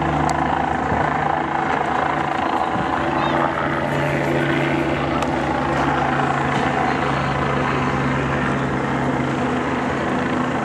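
A steady engine drone with a shift in pitch between two and three seconds in.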